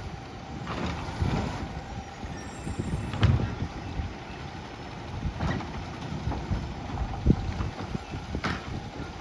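Peterbilt 520 garbage truck with a Labrie Automizer body running, with a steady thin tone over the engine and several sharp knocks and hisses, the loudest about three seconds in and another about seven seconds in.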